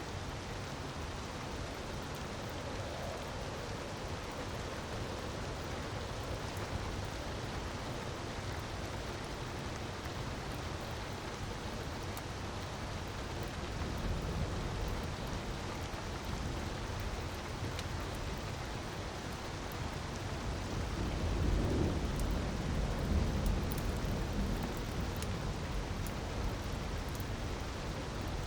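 Steady rushing of a waterfall with faint crackles of a wood fire. The low rumble of the water swells briefly about 14 seconds in and again from about 21 to 24 seconds.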